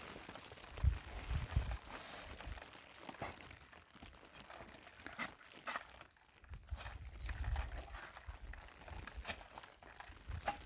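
Footsteps crunching through snow, with low gusts of wind buffeting the microphone now and then.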